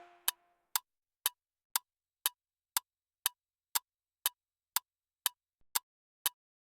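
Clock-like ticking of a quiz countdown-timer sound effect, sharp even ticks about two a second, counting down the time to answer.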